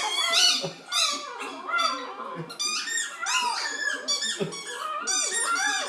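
A dog making funny vocal noises in a string of short, wavering high-pitched calls, mixed with squeaks of a squeaky toy as it plays with it.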